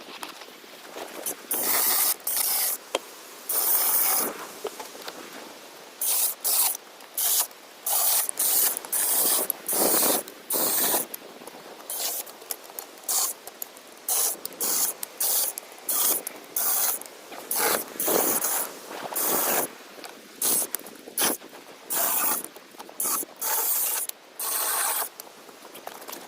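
Cheap cordless electric chainsaw run in short bursts, its motor and chain starting and stopping about once a second as it works into hardwood.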